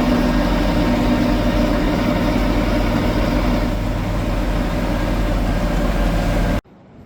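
Engine of a military 2½-ton deuce-and-a-half truck running steadily, then cutting off abruptly near the end.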